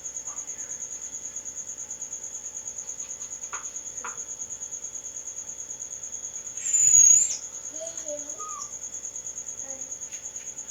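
A cricket trilling steadily in a high, fast pulsing note. About seven seconds in, a brief, louder, sharp sound cuts across it.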